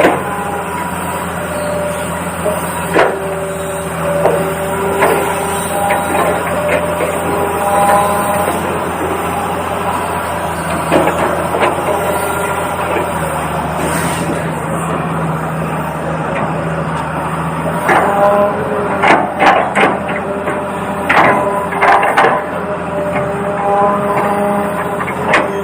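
Toy RC excavator running, its engine-sound simulator giving a steady low engine hum with short tones coming and going above it. A run of sharp knocks about three quarters of the way through.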